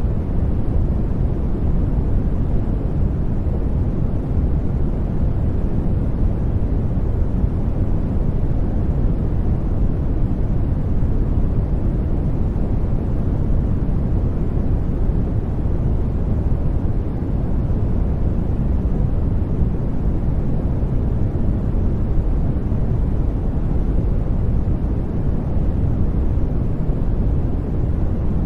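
Steady, even noise of a sleep noise track, deep and strongest in the bass and thinning out toward the highs, with no changes or separate sounds.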